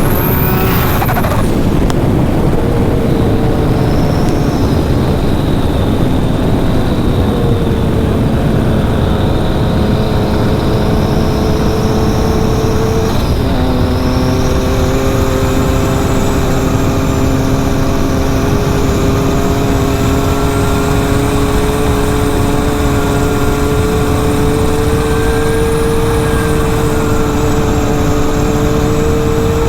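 Engine of a turbocharged Yamaha YXZ side-by-side, a three-cylinder, running under steady load with loud low rumble; its pitch holds fairly level, steps abruptly about halfway through, then creeps slowly upward.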